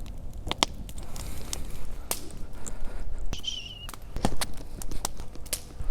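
Wood campfire crackling: sharp, irregular snaps and pops over a low rumble, with a short wavering whistle about three and a half seconds in.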